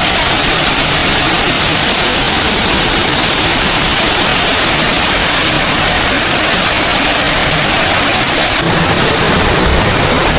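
Small waterfall's water rushing in a loud, steady roar. Near the end the sound shifts to less hiss and more low rumble.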